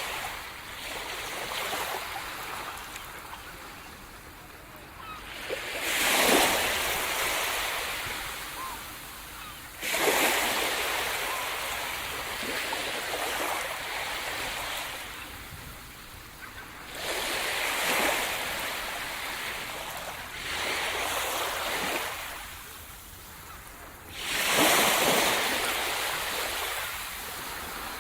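Sea surf breaking on a shore: waves rush in and wash back every few seconds, the loudest surges about six, ten and twenty-five seconds in.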